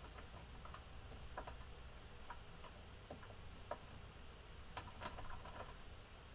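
Budgerigars making scattered light clicks and taps, irregular and a few a second, with two sharper clicks close together about five seconds in.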